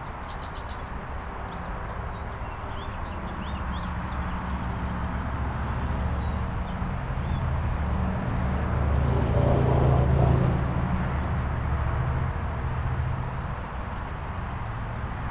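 A vehicle's engine rumble building steadily, loudest about ten seconds in, then fading as it passes, with a few faint bird chirps early on.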